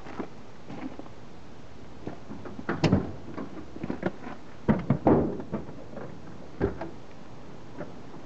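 A series of separate clunks and knocks, the loudest about three seconds in and a pair about five seconds in, with no engine running.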